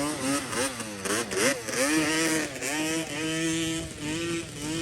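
Yamaha Banshee quad bike's two-stroke engine revving: quick throttle blips that rise and fall in the first second and a half, then held at a steady high rev with brief dips.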